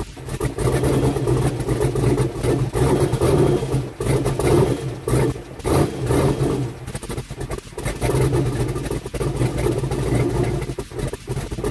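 Swapped 6.0-litre V8 in a Chevrolet S10 pickup running, its level dipping and swelling a few times.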